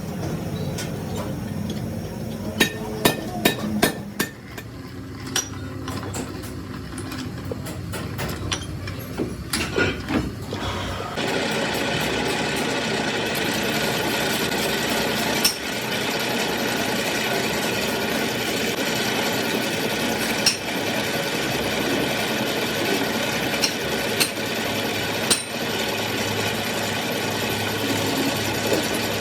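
Sharp hammer strikes in quick clusters. About a third of the way in, a workshop machine starts running steadily, with a few single knocks over it.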